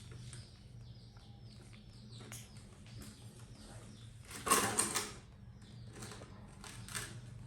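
Light splashing of bath water with scattered small ticks and drips, and a louder splash about four and a half seconds in.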